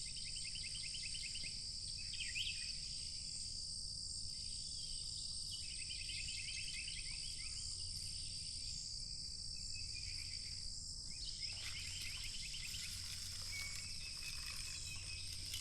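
Insects trilling steadily in high-pitched bands, with stretches of rapid chirping and a single short chirp about two seconds in, over a faint low hum.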